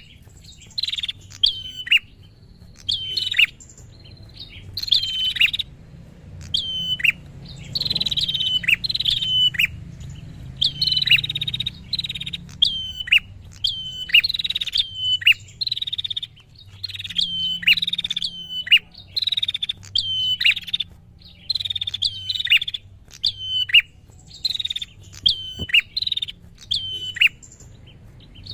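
A prinia (prenjak) calling loudly and persistently: sharp, repeated chirps that drop quickly in pitch, coming in short chattering bursts about once or twice a second.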